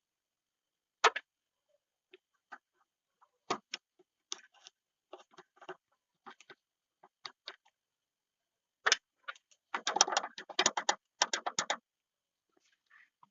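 Irregular clicks and knocks of small hard parts and tools being handled during master cylinder repair work, with a quick run of rattling clicks about ten seconds in.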